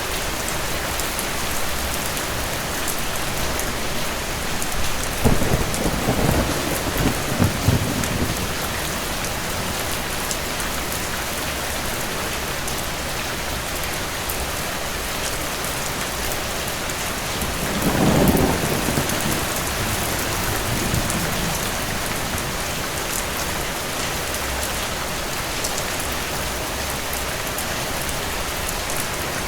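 Steady rain with two rolls of thunder. The first comes about five seconds in and rumbles for a few seconds with several sharp peaks; the second, about eighteen seconds in, swells and rolls away more softly.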